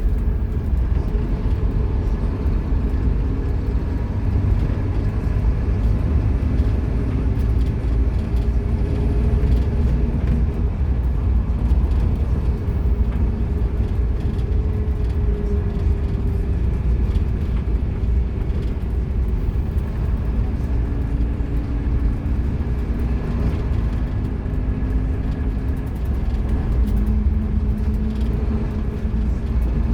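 Scania K230UB Omnilink bus running under way, its five-cylinder diesel making a steady low rumble. The engine note drifts lower and higher in pitch as it pulls and eases off.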